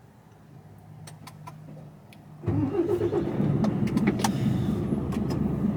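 A few light clicks, then about two and a half seconds in the Mercedes Actros truck's diesel engine fires up abruptly and settles into a steady run.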